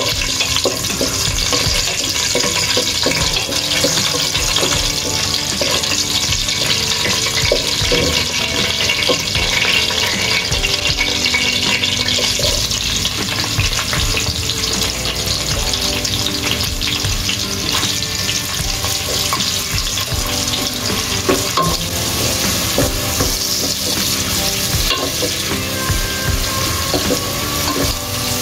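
Hot oil sizzling steadily as whole spices and then sliced onions fry in a non-stick pot, with the scrape and clatter of a spatula stirring them.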